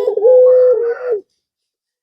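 Male puter pelung dove cooing to call a female: a few short notes run into one long, steady held coo that fades out just over a second in.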